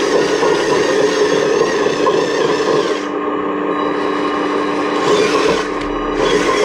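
Radio-controlled model excavator running, its electric motors and gears whirring with a steady tone and a rasping grind. The sound thins briefly about three seconds in and again near the end.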